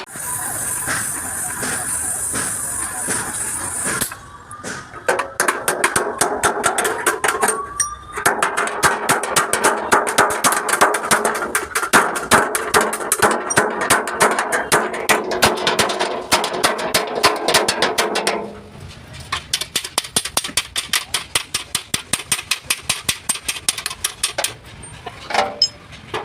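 Rapid hammer blows on the sheet-metal panels of a Tata truck cabin, several strokes a second, as dents are beaten out. The blows pause briefly twice and turn softer and sparser after about three quarters of the way through.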